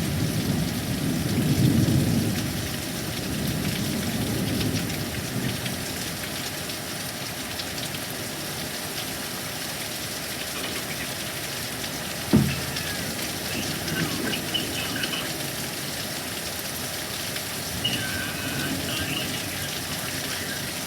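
Thunderstorm: steady heavy rain, with a low roll of thunder in the first few seconds that fades away. A single sharp knock about twelve seconds in.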